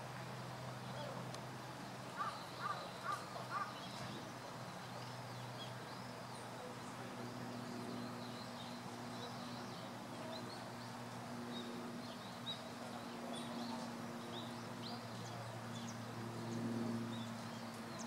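A bird calling four times in quick succession about two seconds in, over faint high chirps of small birds and a steady low hum.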